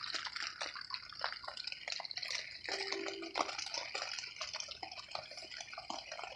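Rain falling on a tent, heard from inside: a steady hiss with many irregular drops ticking on the fabric. A brief low tone sounds about three seconds in.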